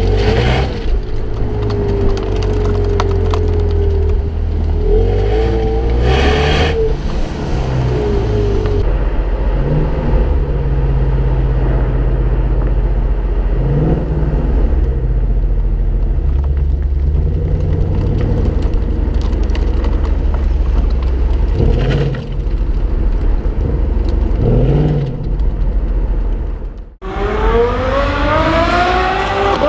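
Ford Mustang engine running and revving several times. About 27 seconds in the sound cuts off sharply, then the car accelerates hard with a steadily rising pitch.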